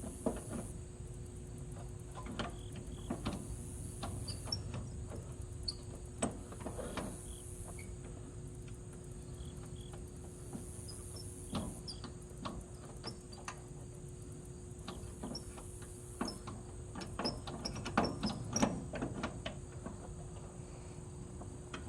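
Crickets chirping in long trilling stretches that stop and start every few seconds, over a faint steady hum, with scattered light clicks and knocks. No engine cranks: the 1966 Ford 3000 tractor is not turning over.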